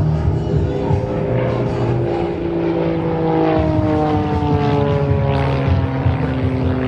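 Pitts S-2 aerobatic biplane's 260-horsepower Lycoming engine and propeller droning, its pitch falling steadily through the second half.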